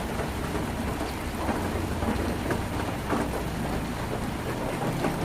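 Heavy rain falling on a tin roof: a dense, steady patter with many separate drop hits standing out from the wash.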